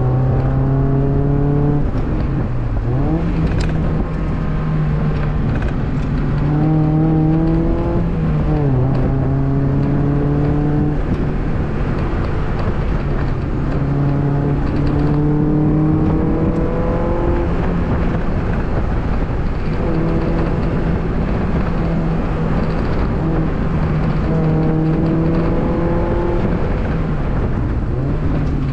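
2002 Mazda Miata's 1.8-litre four-cylinder engine pulling hard on an autocross course, its pitch climbing under acceleration and dropping back several times as the car slows for corners, over steady tyre and road noise.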